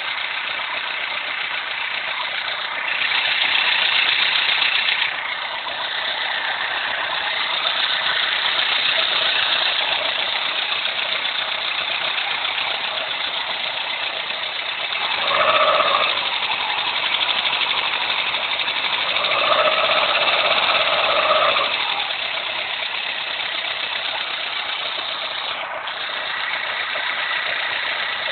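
Renault Clio engine running steadily. It grows louder for a few seconds three times: a few seconds in, about halfway through, and about two-thirds through.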